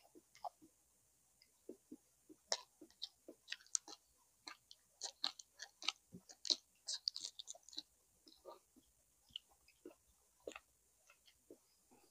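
Close-miked chewing and lip-smacking of a person eating braised pork leg and rice: a run of short wet clicks and smacks, busiest in the middle and thinning out near the end.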